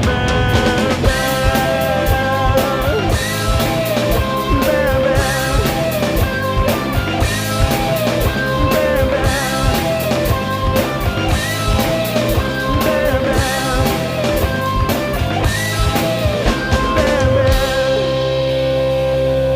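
Rock song with singing and guitar, played along to on a drum kit. About seventeen and a half seconds in the drums stop, leaving a held chord ringing.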